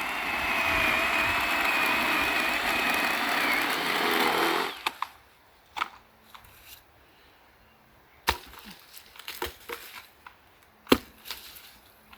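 Cordless 20 V battery-powered saw running and cutting through a piece of firewood, a steady high motor whine with cutting noise that stops suddenly about five seconds in. After that come a few scattered sharp knocks and clicks.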